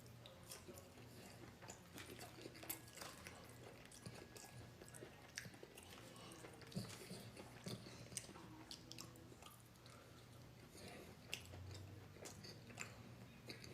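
Faint chewing and mouth sounds of a person eating Wingstop chicken wings: scattered small clicks and smacks.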